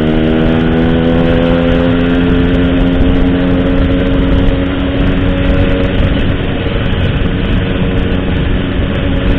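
Motorcycle engine breathing through an Altech C17 aftermarket exhaust, running at a steady cruise with an even note that eases slightly in the first couple of seconds, over a low wind rumble.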